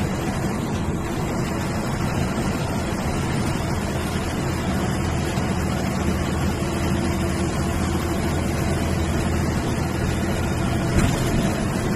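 MSRTC sleeper/seater bus under way: steady diesel engine drone and road noise, with a brief knock near the end.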